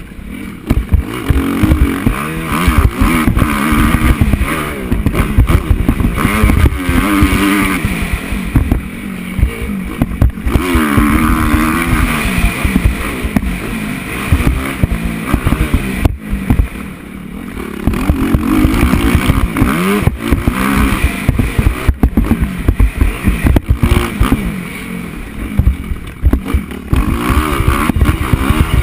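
Motocross bike engine revving up and dropping off again and again as the bike accelerates and shifts around the track, with heavy wind buffeting the microphone.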